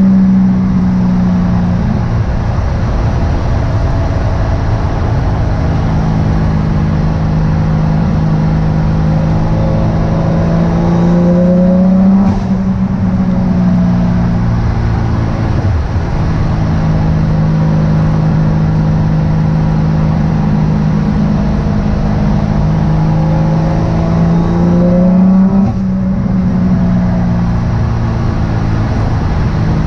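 Turbocharged 1JZ VVTi inline-six engine of a 240SX running under load while driving. Its note climbs slowly and then drops off abruptly twice, about 12 and 26 seconds in, as the revs fall.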